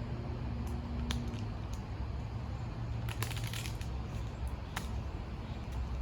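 Wind rumbling on the microphone, with scattered small clicks and rustles from handling, a cluster of them about three seconds in.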